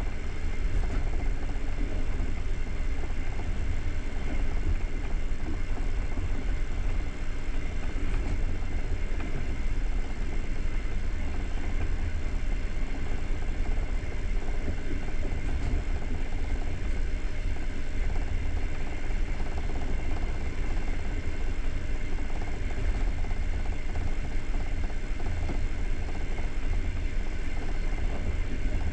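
Passenger train running at speed, heard from inside a coach by the window: a steady low rumble of wheels on the rails with an even hiss of running noise, no distinct rail-joint clicks.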